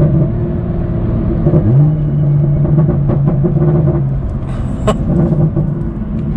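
BMW F87 M2's turbocharged N55 straight-six, running through a catless downpipe, heard from inside the cabin while driving. It is a steady drone whose pitch climbs about a second and a half in and then holds as the car pulls.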